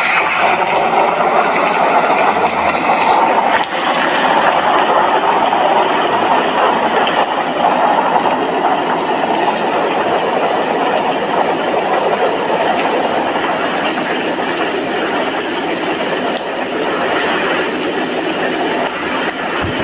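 Heavy rain falling steadily: a dense, even hiss with scattered small clicks of drops.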